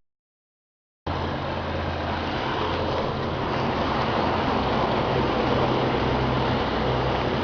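Silence for about a second, then a farm tractor's engine running steadily while under way, with wind and road noise over it.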